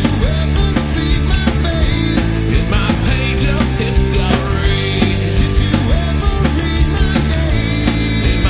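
Loud rock song with drums, distorted guitar or bass and a singing voice.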